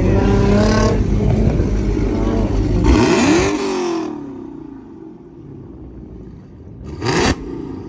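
Car engine revving loudly: its pitch climbs in the first second, another rev rises and falls about three seconds in, then it drops back quieter, and a short sharp rev comes near the end.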